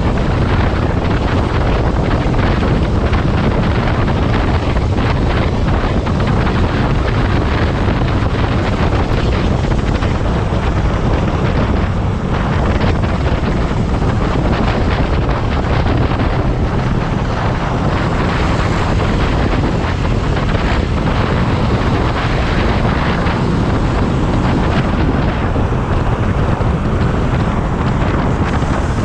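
Motorcycle on the move, with loud, steady wind rushing over the microphone that largely covers the engine.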